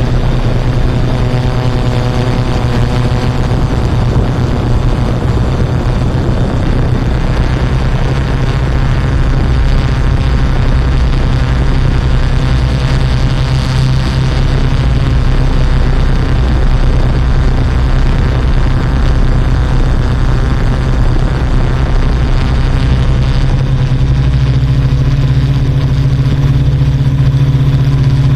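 Yuneec Typhoon Q500 4K quadcopter's electric motors and propellers buzzing steadily in flight, a stack of pitches that drift a little up and down.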